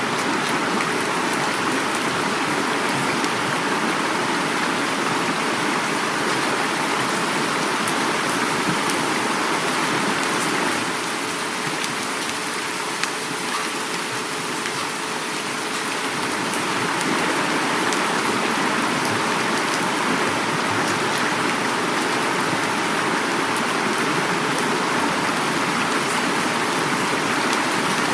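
Heavy rain falling with a river flowing, a steady dense rush with fine drop patter on top, easing slightly about a third of the way in and building back up.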